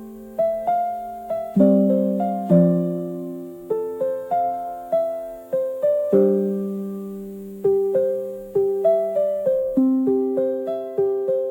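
Slow, gentle solo piano music, with single notes and chords struck and left to fade.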